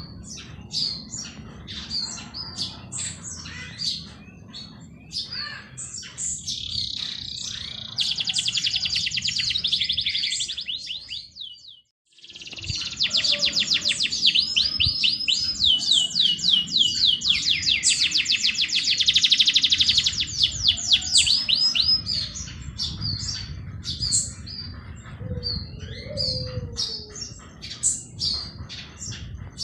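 Several songbirds chirping and calling, with long, fast rattling trills of rapidly repeated high notes that swell in the middle stretch. The sound cuts out completely for a moment about twelve seconds in, then the trilling resumes.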